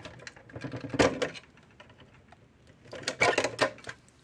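Clicks and clatter of an electric fence charger's circuit board and plastic case being handled and pulled apart, in two short bursts about a second in and about three seconds in.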